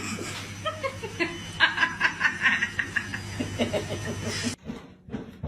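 A person laughing and snickering in short repeated bursts over a steady low hum, cut off suddenly about four and a half seconds in.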